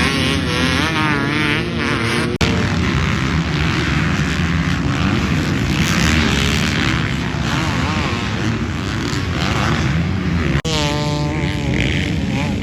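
Several motocross dirt bike engines revving and shifting on the track, their pitches rising and falling and overlapping, with two very brief breaks.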